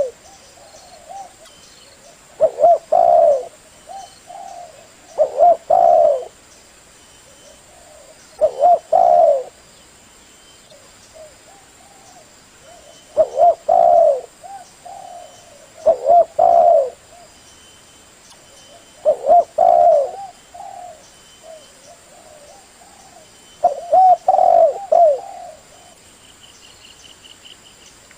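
Spotted dove (tekukur) cooing: short multi-note coo phrases repeated about every three seconds, eight times. This is the call used to lure other tekukur.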